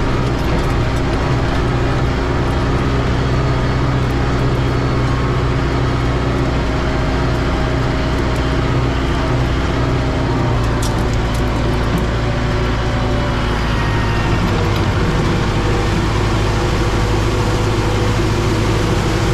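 Kubota M6060 tractor's diesel engine running steadily while the tractor travels, with a few short rattles about eleven seconds in.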